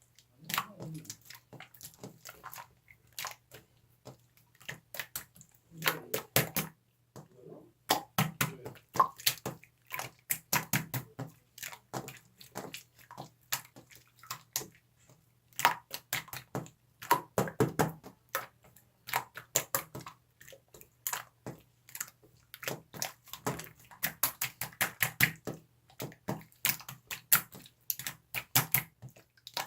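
Slime being squeezed and worked by hand, making irregular sticky clicks and wet pops.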